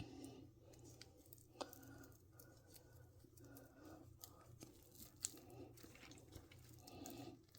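Faint rustling and handling noises of a fashion doll being pulled into a fabric dress, with two small clicks.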